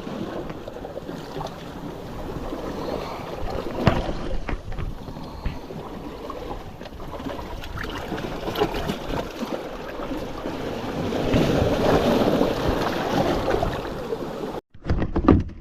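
Wind buffeting the microphone over moving water, with scattered knocks and handling bumps; the sound cuts out abruptly near the end.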